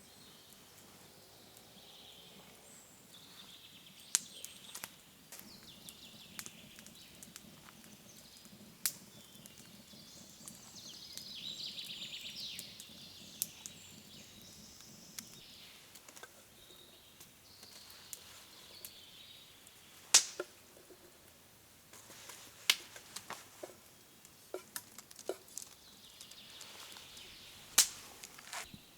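Irregular sharp clicks and knocks over quiet outdoor ambience.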